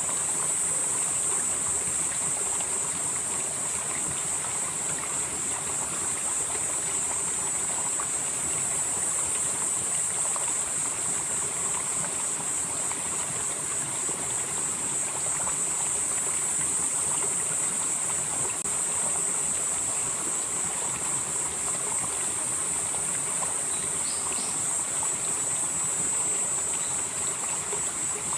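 Valley stream flowing steadily over rocks, with a continuous high-pitched insect drone, likely crickets, above the water noise.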